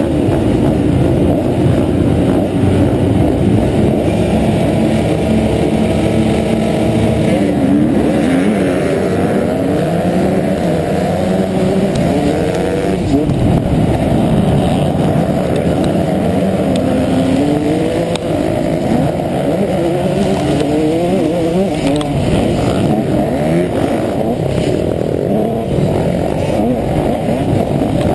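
Honda CR125 two-stroke single-cylinder motocross engine running hard under load, its pitch repeatedly climbing as the rider accelerates and dropping off at shifts and corners, heard muffled from an onboard camera.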